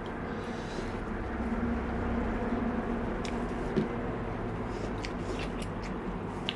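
Eating sounds: a few light clicks and taps, as of a spoon or fingers on a plate, over a steady low hum.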